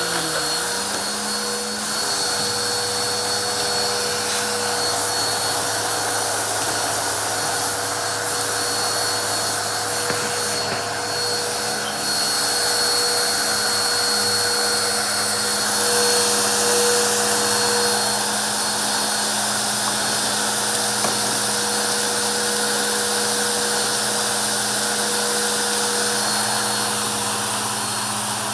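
Vacuum cleaner running steadily, a motor hum with a thin high whine over a strong rush of air, getting a little louder about twelve seconds in.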